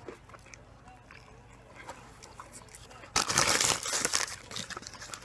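A bite into a chicken sandwich: quiet at first, then about three seconds in a second or so of loud crunching, with lighter crunches after.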